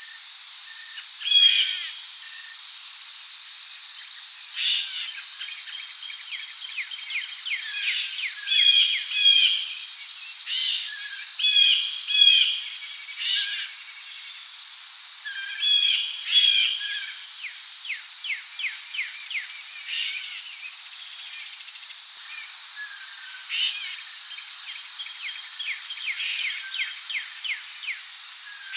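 Tropical rainforest ambience: a steady, high-pitched drone of insects, with birds calling again and again over it and some rapid ticking trills.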